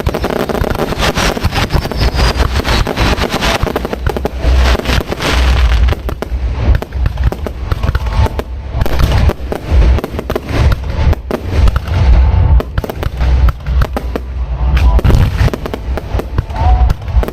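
Fireworks display heard close to the launch site: a dense, continuous barrage of booms and crackling bursts with no pause.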